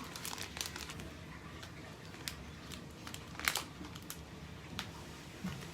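Plastic wrapper of a packaged sandwich crinkling in scattered soft rustles and clicks as it is opened and handled, with one sharper crackle about three and a half seconds in.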